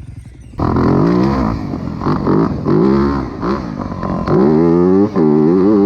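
Dirt bike engine cutting in suddenly and revving hard in about five rising surges, each climbing in pitch and then dropping back.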